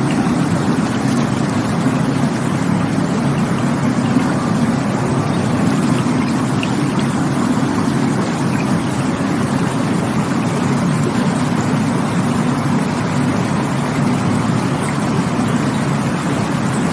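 Rushing water running steadily, an even noise with no breaks and most of its weight low down.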